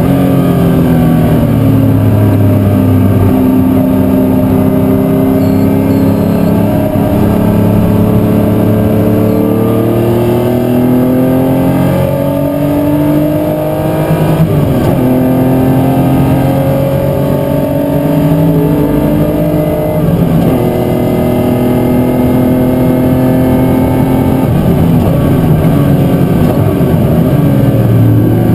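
Racing car engines at full race load, the pitch climbing through the revs and dropping back again and again as the cars change gear and brake for corners.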